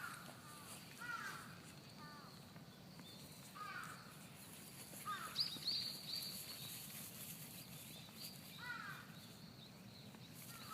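Crows cawing, one short call every second or two. A higher, sharper bird call comes about five seconds in.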